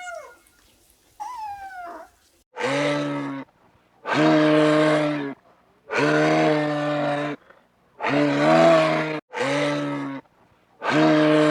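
A cat meows twice at the start, with short gliding calls. Then a cow moos six times in a row, each moo a long, low, steady-pitched call about a second or more long, with short gaps between.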